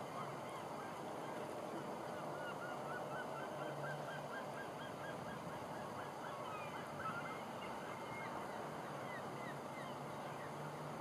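Birds calling outdoors: many short chirping notes, with a quick run of them about two to four seconds in, over a low steady hum that comes and goes.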